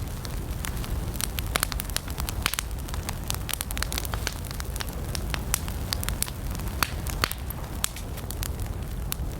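Campfire of burning wood crackling, with frequent irregular sharp pops and snaps over a steady low rumble of the flames.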